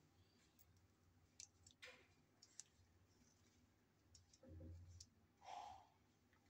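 Faint small clicks and rustles of electrical wires being handled and twisted together into a joint, with a soft thump about four and a half seconds in.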